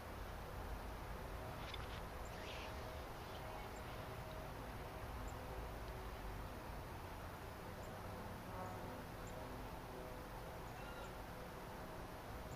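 Small birds chirping faintly, a few short high calls here and there over a steady low background rumble and hiss.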